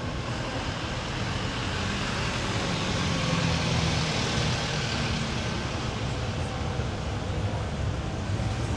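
Road traffic on a city street: a vehicle passes, its noise swelling to a peak about four seconds in and then easing, over a steady low rumble.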